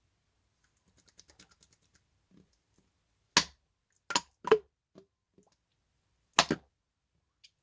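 Slime being pressed and played with by hand: faint crackling, then a few sharp, loud pops, some coming in quick pairs.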